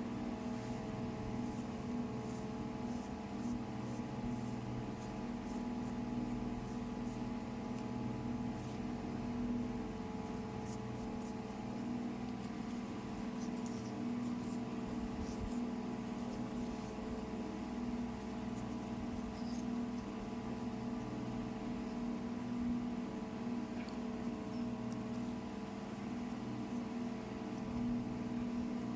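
Small electric motor of a DIY model tractor running with a steady hum, with faint ticks now and then.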